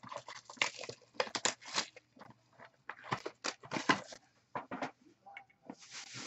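Crinkling and tearing of card packaging, a dense run of irregular crackles and clicks as packs or boxes are torn open and handled.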